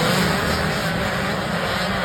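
Motocross dirt bike engines running on the track, a dense buzzing engine noise that slowly fades a little.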